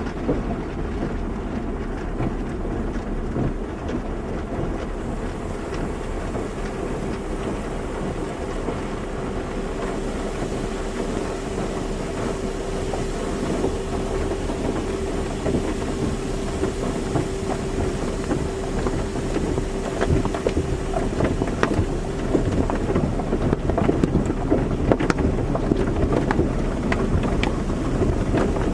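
Automatic car wash running: water spray rushing and spattering against a car, over the rumble of the wash machinery. A steady hum comes in about five seconds in and fades out around twenty seconds, and the spattering grows denser near the end.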